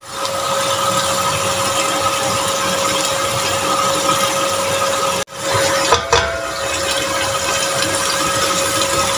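Yogurt-and-spice masala sizzling steadily in a steel pot on the stove, with a steady hum underneath. The sound breaks off for a moment about five seconds in, then carries on.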